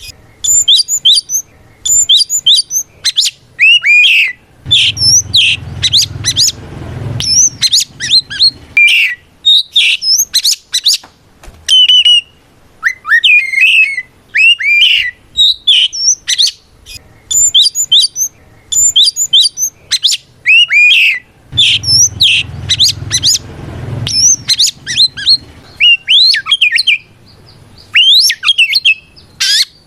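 Oriental magpie-robin singing loud, fast bursts of varied whistles, slurred glides and harsh notes, with short pauses between phrases: a full-voiced challenge song calling out a rival. A low hum comes in under the song twice, a couple of seconds each time.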